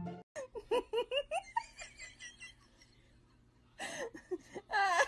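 A person laughing in quick, high-pitched bursts, then a lull of about a second and a half, then louder laughter again near the end.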